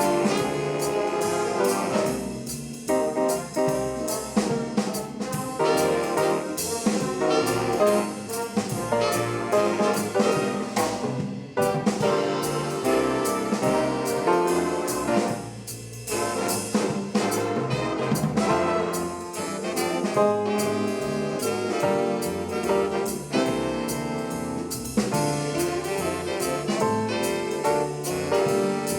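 High school swing band playing a jazz number: trumpets, trombones and saxophones over a drum kit, with the band dropping out briefly twice, about a third and half of the way through.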